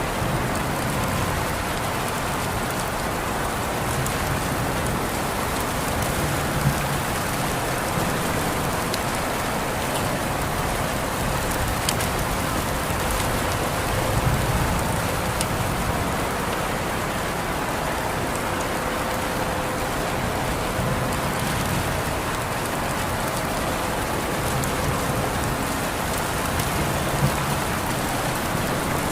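Steady rain falling, with scattered sharper drop hits here and there.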